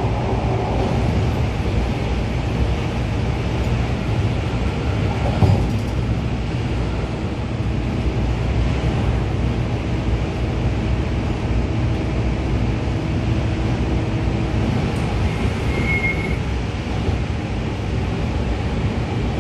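Cabin sound of an MTR A-Train electric multiple unit running at speed: a steady rumble of wheels and traction equipment. There is a single knock about five seconds in and a brief high squeal about sixteen seconds in.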